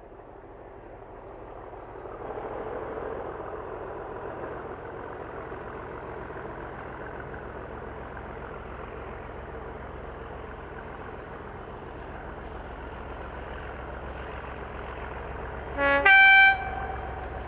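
Diesel locomotive running, its engine rumble growing louder over the first couple of seconds and then holding steady. Near the end it sounds its two-tone horn once: a brief low note, then a higher note held about half a second.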